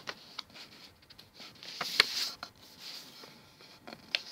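A sheet of A4 paper being folded and creased by hand: scattered crinkles and taps, the sharpest about two seconds in.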